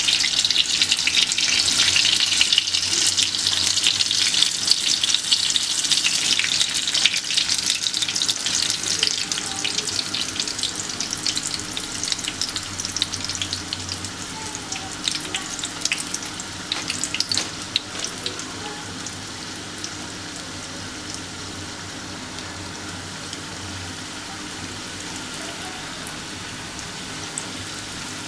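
Samosas frying in hot oil: a dense sizzle full of sharp crackles that slowly dies down, settling into a quieter steady sizzle over the second half.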